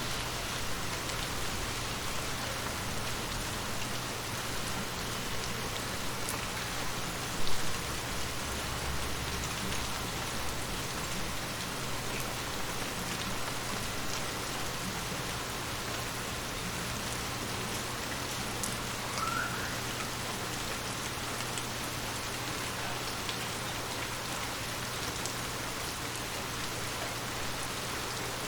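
Steady rain falling, an even hiss of drops, with one short low thump about seven and a half seconds in.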